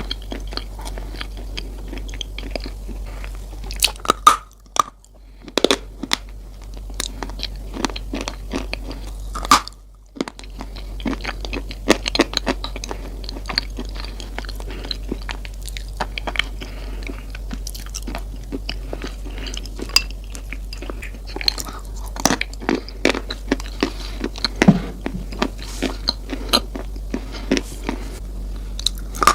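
Close-miked chewing of crunchy Coco Crunch chocolate cereal: dense, sharp crunches, with two brief pauses about five and ten seconds in. A steady low hum lies underneath.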